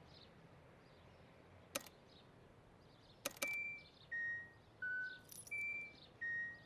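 A sharp click, then a double click, then a pedestrian crossing signal sounding: short beeps at changing pitches, a little under one a second. It is the signal that it is safe to cross.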